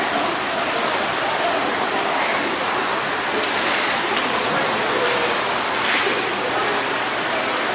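A steady, even rushing noise like running water, with faint voices behind it.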